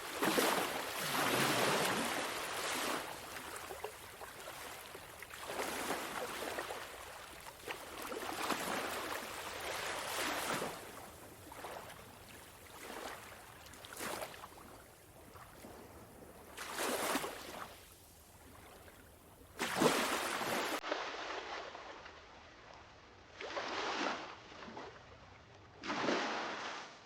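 Small sea waves breaking and washing up a sandy beach, a rush of surf every two to three seconds that swells and fades back.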